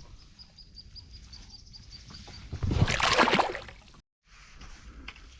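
A splash of water about a second long, near the middle: a caught bass being released from a kayak.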